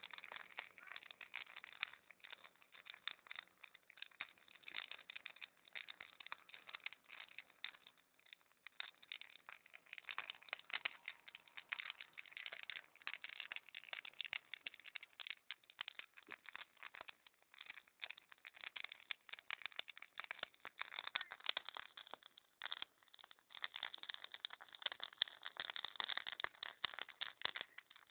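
Large wood bonfire crackling, with dense, irregular snaps and pops from the burning logs.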